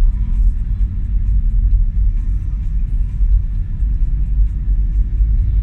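Steady low engine rumble of a truck in slow, jammed motorway traffic, with faint music over it.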